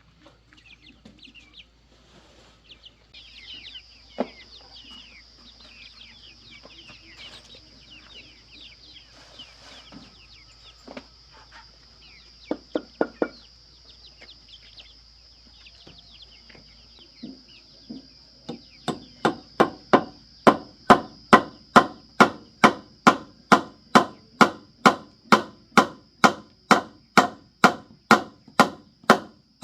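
Chickens clucking softly, then, a little past halfway, a hammer starts driving nails into wood with steady blows, about two a second, louder than everything else.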